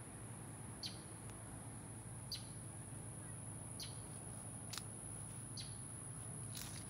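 Outdoor ambience: a bird giving a short high call that falls in pitch, repeated about every second and a half, over a steady high insect buzz.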